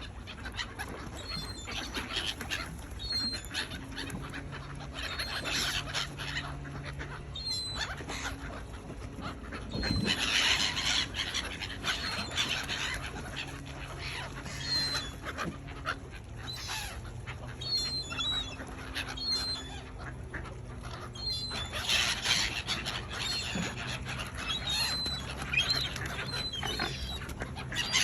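Gulls and other waterbirds calling in short, repeated cries as the flock crowds in for bread, louder in spells about ten seconds in and again past twenty seconds.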